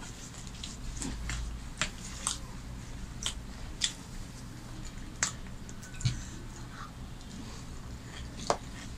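Close-up eating sounds: chewing on paratha, with sharp, wet mouth clicks scattered through, about eight in all. A steady low hum runs underneath.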